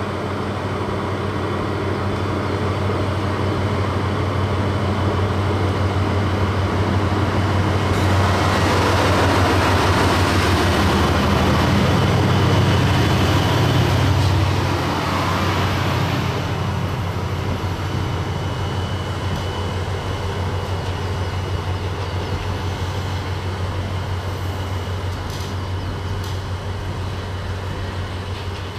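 Diesel train passing on snowy track: a steady engine drone builds, peaks with a rush of wheel noise about a third of the way in, then fades slowly as the train moves away.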